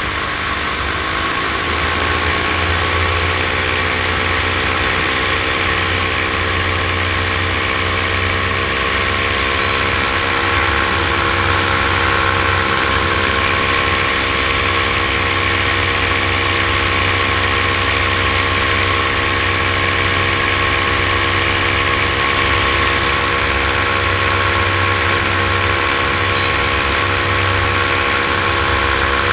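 Multirotor drone's electric motors and propellers running, a steady whine over a rushing hiss. Its pitch rises over the first two seconds, then holds.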